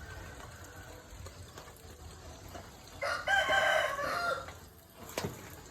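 A rooster crows once, a single call of about a second and a half starting about three seconds in. A brief sharp click follows near the end.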